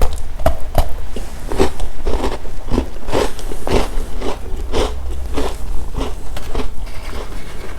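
A person chewing crunchy chocolate snacks close to the microphone, with a steady crunching chew about twice a second.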